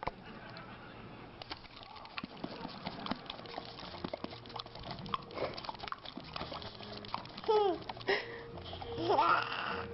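An animal's short pitched calls, bending in pitch, about seven and a half and again about nine seconds in, over scattered knocks and rustling.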